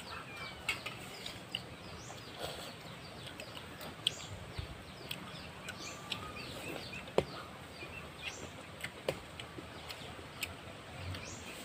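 Small birds chirping repeatedly in quick, short, falling notes over a quiet outdoor background, with a few sharp clicks scattered through.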